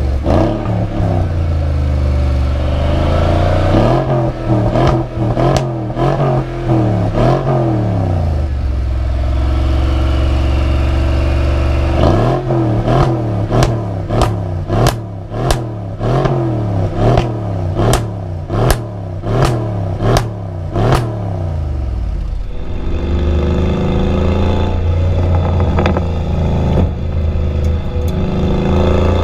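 High-performance car engine accelerating hard, its pitch climbing and dropping back again and again as it shifts up through the gears. About halfway through comes a run of quick rises and falls, each with a sharp exhaust crack. Near the end the sound changes abruptly, as at a cut to another run.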